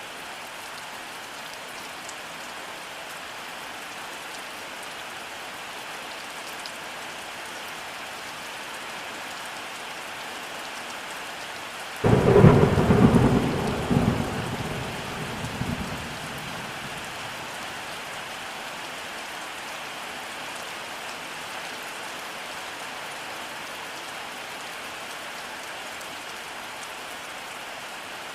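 Steady rainfall with a single thunderclap partway through: it starts suddenly, is the loudest sound, and rumbles away over about four seconds.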